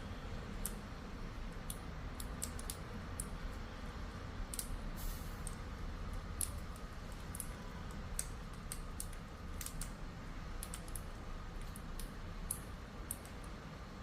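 Irregular light clicks and taps, a few a second at most, over a faint low hum.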